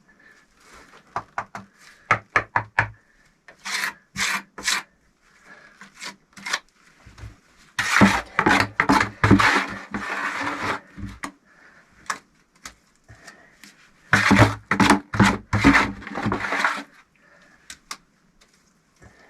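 Rough scraping and rasping strokes in several bouts of one to three seconds each, with short pauses between them.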